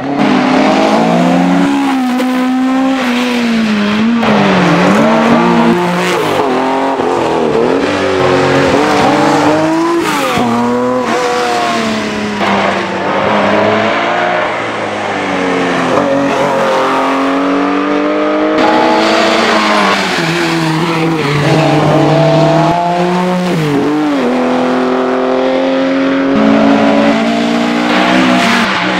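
Historic rally cars driven flat out on a stage: an engine revs hard, rising in pitch, then drops sharply on each gear change or lift off the throttle, over and over.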